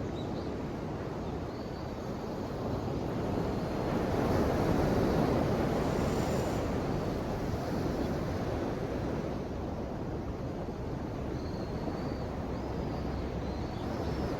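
Ocean waves washing in, a continuous surf noise that swells to its loudest about four to six seconds in and then eases back.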